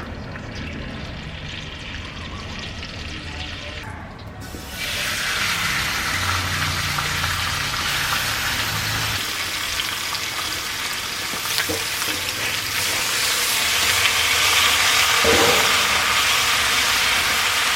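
Food frying in hot oil, a dense sizzle that starts about five seconds in and grows louder toward the end. A low rumble comes before it.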